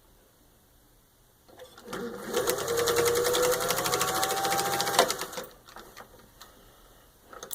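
Singer 201-2 sewing machine stitching through six layers of denim. Its rewired motor starts about two seconds in and runs up with a rising whine over rapid needle strokes, then stops abruptly about three seconds later.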